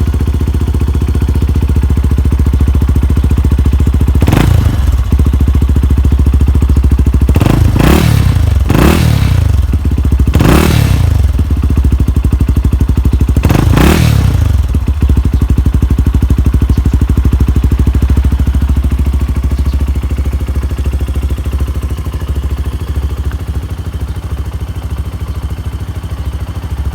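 Benelli TNT 135's small single-cylinder engine idling through a straight-piped header and an aftermarket muffler with a dB killer, catalytic converter removed. It is blipped about six times, each rev rising and falling back quickly, the blips between about four and fourteen seconds in. It then settles back to a steady idle that fades slightly near the end.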